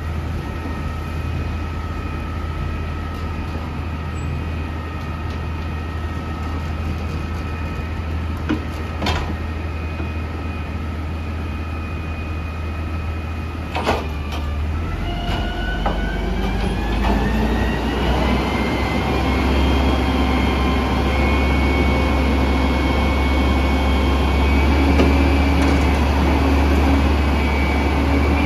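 Peterbilt 320 front-loader garbage truck running steadily with a low engine hum, with a couple of sharp knocks. About halfway through the engine speeds up with a rising whine, which then holds steady at the higher pitch, as when the truck's hydraulics are being worked.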